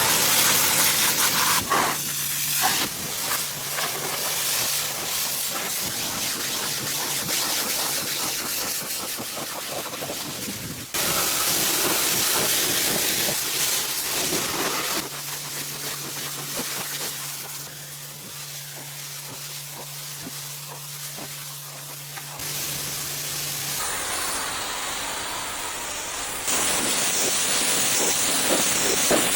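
Steam cleaner hissing as it sprays, with the machine's low steady hum underneath in some stretches. The hiss changes level and tone abruptly several times.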